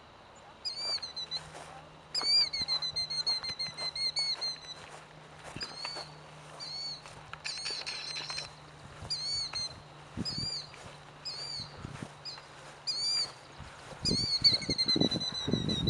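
A bird repeatedly giving high alarm calls, short notes that rise and fall, sometimes in quick runs of several notes, because its nest with eggs is on the ground close by. Rustling and handling noise near the end.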